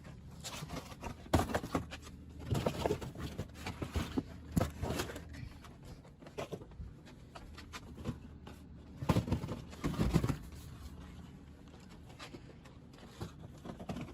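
Irregular knocks, clatters and scrapes of food packages and containers being handled and pulled out of a refrigerator, loudest in clusters about a second and a half in, around three to five seconds in, and around nine to ten seconds in.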